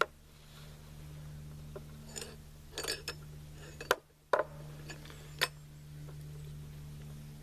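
AR-15-type rifle upper parts being handled and fitted: a scatter of sharp metallic clicks and clinks, about half a dozen, over a steady low hum that cuts out briefly about halfway through.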